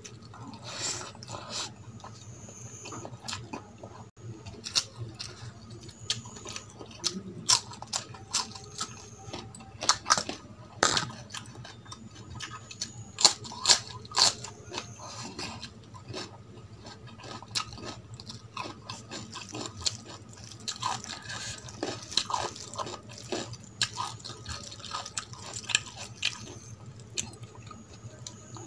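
Close-up eating sounds of rice and curry eaten by hand: wet chewing and lip smacks, heard as many irregular sharp clicks.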